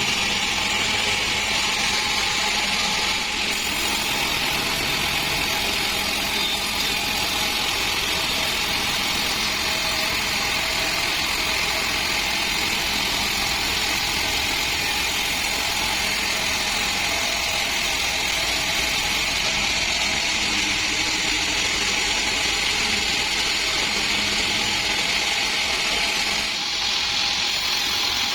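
Band sawmill running steadily, its blade cutting through a dry acacia log: a continuous machine hum under a high, even hiss, with slight changes in tone a few seconds in and near the end.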